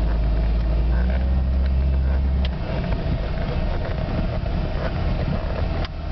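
Off-road vehicle's engine running, heard from inside a car's cabin, with a deep rumble that drops away about two and a half seconds in and a few light clicks and knocks.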